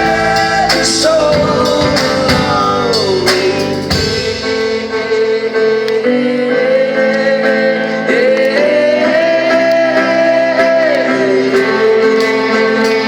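Live band playing a pop-soul song, with guitar under long held, sliding melody notes that are sung without clear words.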